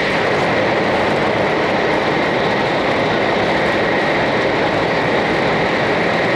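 Steady running noise inside the passenger cabin of a 500 series Shinkansen on the move: an even rush and rumble of wheels and air, with a faint steady high whine.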